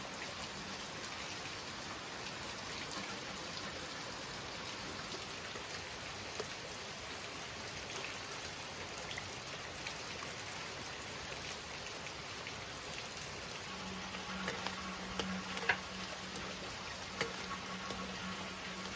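Steady light rain pattering on surfaces. About two-thirds of the way through, a low steady hum comes in, with a few light clicks over it.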